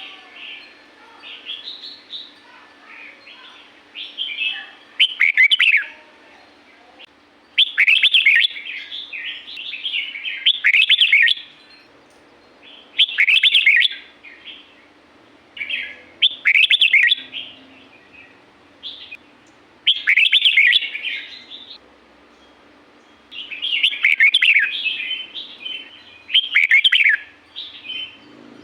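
Red-whiskered bulbul singing: short, bright warbled phrases repeated every two to three seconds, with softer chirps in between.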